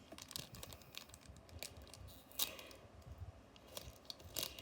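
Faint crinkling and rustling of a foil booster pack wrapper and trading cards being handled, with one sharper crackle about two and a half seconds in.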